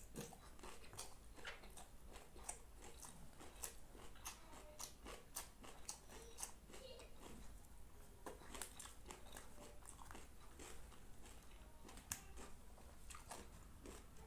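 A person eating with mouth sounds close to the microphone: faint biting and chewing, with many irregular small clicks and smacks.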